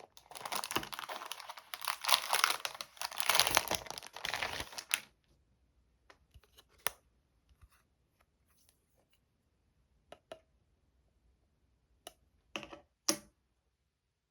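Parcel packaging being torn and crinkled open for about five seconds, then scattered light clicks and taps of handling, with a couple of sharper knocks near the end.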